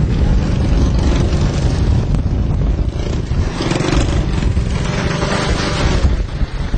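Loud, steady rushing rumble of floodwater, with wind buffeting the microphone.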